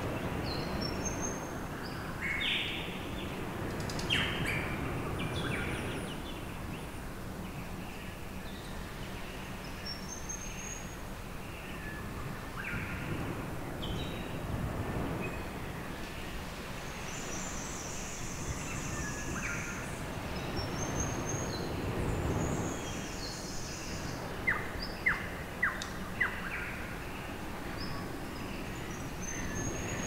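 Birds chirping, short high calls scattered throughout, over steady background noise. A quick run of four or five sharp clicks near the end is the loudest sound.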